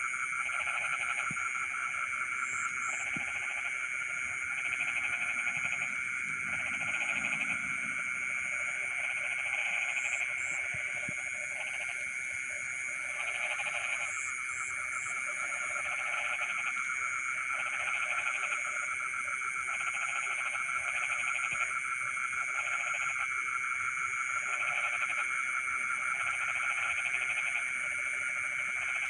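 Night chorus of frogs in a flooded rice field: a steady, continuous trilling with lower calls repeating in short bursts about once a second, over a constant high-pitched insect buzz.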